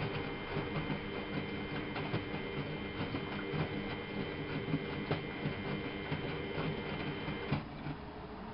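Miele Novotronic W830 washing machine turning its drum: a steady motor whine with irregular light ticks and patter. The motor stops suddenly about seven and a half seconds in.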